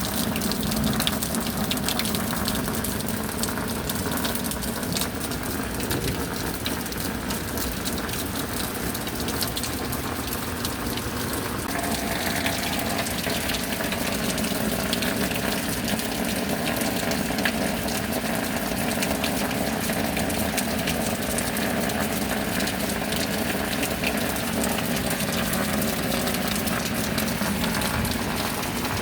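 Steady rain with water pouring and gushing, as from runoff off a roof or a downspout. It runs continuously at an even level, and its tone shifts slightly about twelve seconds in.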